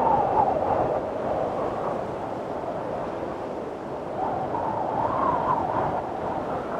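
Windstorm: strong wind blowing in gusts, with a wavering whistle that swells right at the start and again about four and a half seconds in.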